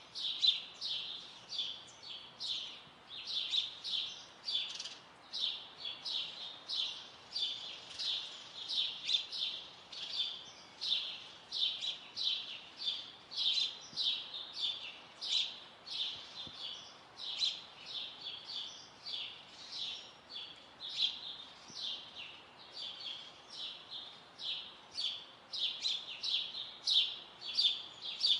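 Songbirds chirping: a steady stream of short, high chirps, several a second, with no pause.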